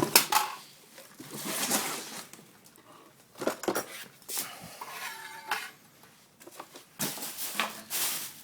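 Box and packing material rustling and scraping, with scattered knocks and clatters, as a sewing machine is worked out of its shipping box.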